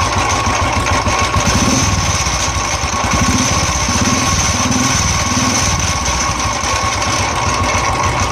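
Royal Enfield single-cylinder engine running steadily after an electric start, with a noise inside the engine like something knocking. The noise comes from a failed starter one-way clutch: its bearing is worn, the rollers have come out and the springs are broken.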